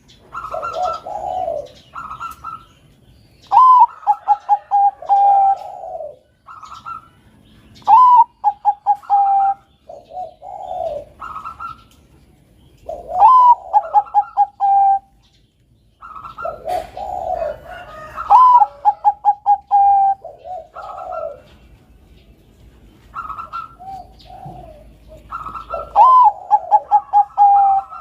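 Zebra dove of the Bangkok perkutut strain cooing: a song phrase repeated about every four to five seconds, each a rising note followed by a quick run of short, even notes, with lower coos in between.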